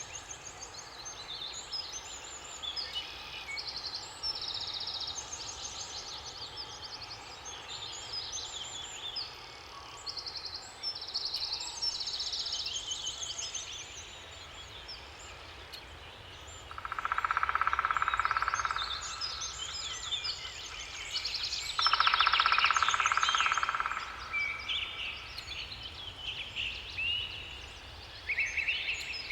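Several songbirds singing and chirping together in quick, high trills and short phrases, over a steady background hiss. Twice, a little past halfway and again a few seconds later, a louder, lower-pitched call lasting about two seconds stands out.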